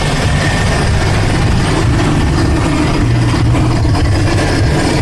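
Toyota Kijang LGX engine idling steadily.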